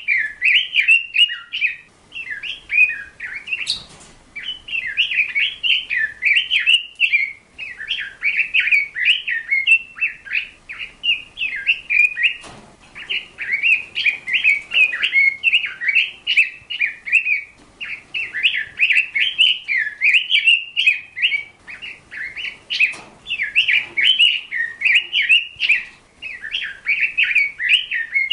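A songbird singing a fast, continuous twittering warble of chirps, broken by short pauses every few seconds.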